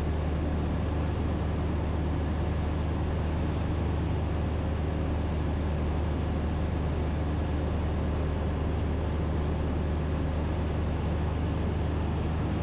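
Ikarus C42 light aircraft's engine and propeller droning steadily in flight, heard from inside the cockpit.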